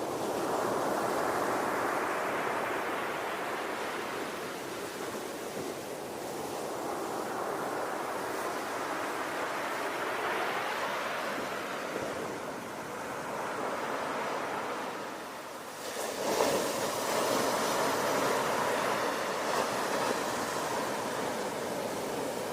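Ocean surf: waves rolling in and washing back in slow swells, with a bigger wave breaking sharply about two-thirds of the way through.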